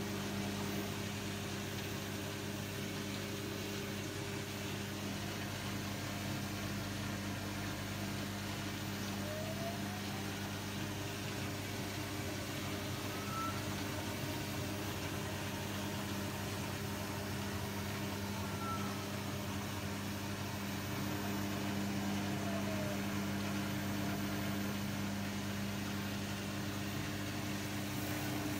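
A machine running with a steady low hum. Near the middle a faint higher tone rises in pitch, and a few seconds later it falls again.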